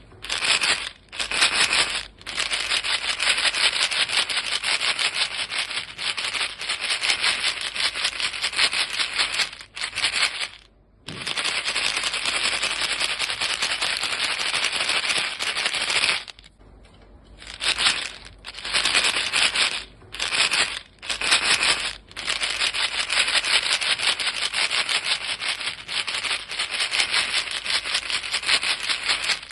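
A box of chewing gum pellets shaken steadily: the pieces rattle against the box in a dense, fast stream of clicks. The shaking stops for about a second around ten seconds in and again a little past the middle, with a few shorter breaks.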